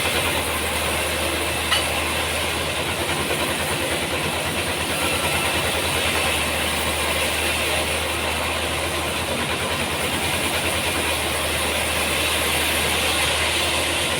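Sawmill machinery running steadily, with a low pulsing hum under a broad hiss, and one sharp knock a little under two seconds in.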